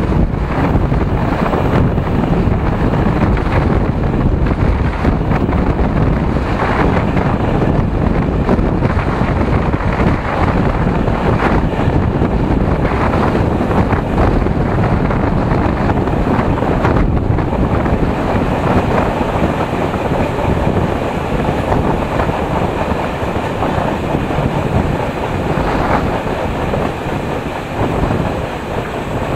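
Passenger train running along the track, heard from a carriage window: a steady rumble of wheels on the rails, with wind buffeting the microphone and a few faint rail-joint clacks.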